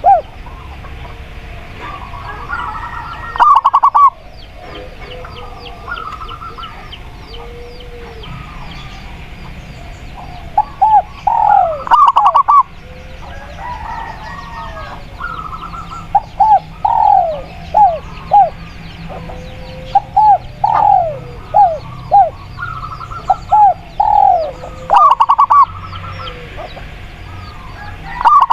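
Zebra doves (perkutut) cooing in quick runs of short, arched, rather high notes that come in groups throughout. A lower spotted dove (tekukur) coo is heard at times, and small birds chirp faintly in the background.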